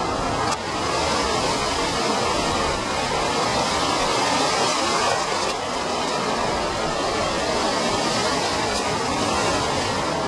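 Steady rushing noise of storm wind and breaking lake waves, with gale-force wind buffeting the microphone.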